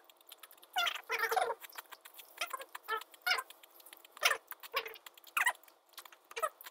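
Close-miked chewing of crispy criss-cut fries: irregular crunches and mouth smacks, about one every half second to a second, with a longer run about a second in.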